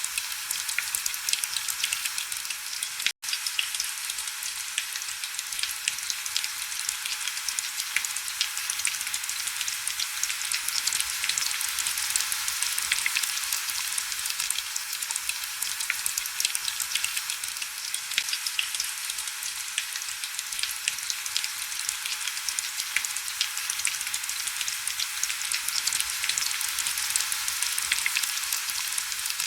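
Heavy rain falling steadily: a dense, crackling hiss of many fine drop ticks with almost no low rumble. It cuts out for a split second about three seconds in.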